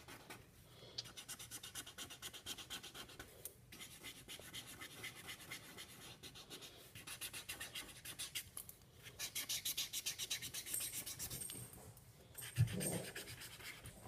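Silver Sharpie marker scribbling back and forth on stiff construction paper, colouring in with fast scratchy strokes in runs broken by short pauses. A brief louder low sound comes near the end.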